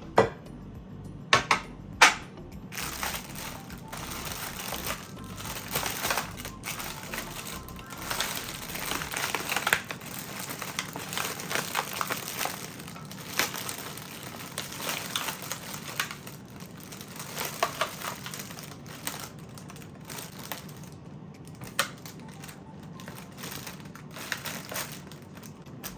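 Crinkling and rustling of a thin material being handled, with three sharp clicks in the first two seconds, over soft background music.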